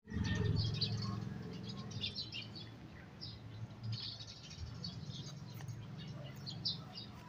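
Small birds chirping in short, high, scattered calls over a low steady rumble.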